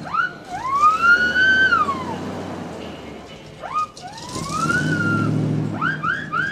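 Aftermarket wolf-whistle horn on a 1959 Chevrolet Impala sounding the wolf whistle: a short rising whoop, then a long whistle that rises and falls. It plays twice, and a third whistle with quick rising chirps starts near the end.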